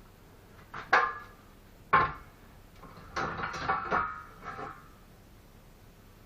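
Bricklaying: two sharp knocks about a second apart as a brick is tapped down into its mortar bed. Then about a second and a half of scraping and clinking as the mortar is worked.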